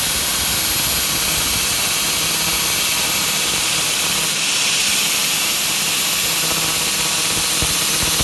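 Steady, loud hissing machine noise from workshop work on an excavator pin, turning brighter and more hissy a little past halfway through.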